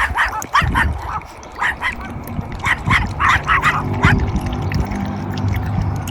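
A dog yipping in short, high-pitched bursts, about a dozen in the first four seconds, some in quick pairs and runs.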